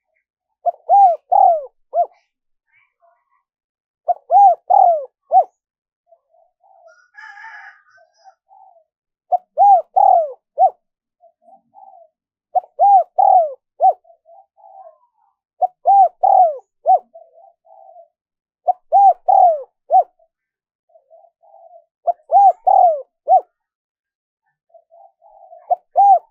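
Spotted dove cooing: a short phrase of three or four rising-and-falling coo notes, repeated about every three seconds.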